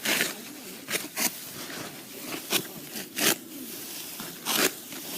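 Serrated sickle cutting rice stalks by hand: about six short, swishing cutting strokes at an uneven pace.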